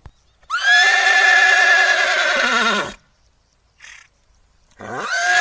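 Horse neighing: one long, quavering whinny lasting about two and a half seconds that drops in pitch at its end, then a brief soft noise, and a second, shorter whinny near the end.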